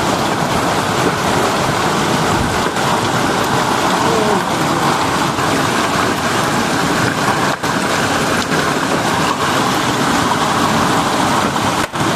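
A heavy downpour beating down hard and steadily in a dense, unbroken hiss.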